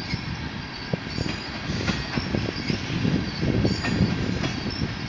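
Freight train of tank cars rolling past: a steady rumble of steel wheels on the rails, with scattered clanks and knocks and short, faint high-pitched wheel squeals.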